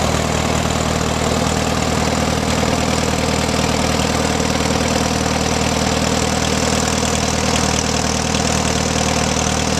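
1938 Case C tractor's four-cylinder engine running steadily at an even speed.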